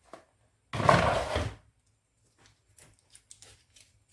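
A loud, short clatter or scrape lasting under a second, about a second in, then faint scattered crinkling ticks as a foil-wrapped chicken stock cube is unwrapped.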